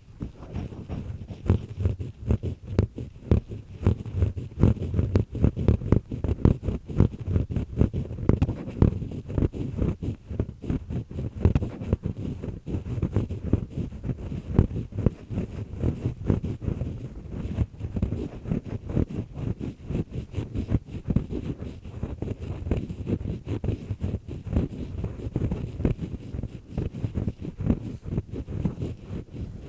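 An earpick scraping inside an ear canal, heard very close: a dense, continuous crackling and grinding scrape, low and muffled, as it works at wax and dry skin.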